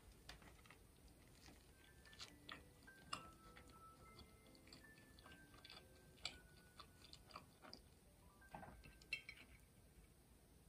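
A person chewing and biting into a soft white-bread sandwich filled with mashed sweet pumpkin salad: quiet, irregular mouth clicks and small crunches, with a couple of sharper bites about three seconds and nine seconds in.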